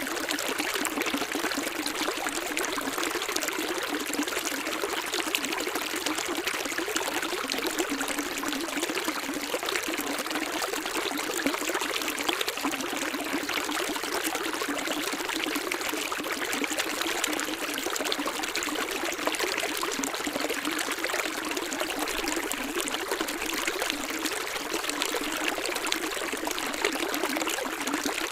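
Stream water running and trickling steadily, a continuous splashing rush with little low rumble.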